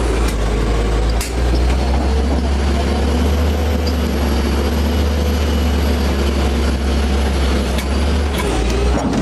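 Heavy diesel engine of earth-moving machinery running steadily, with a few sharp knocks.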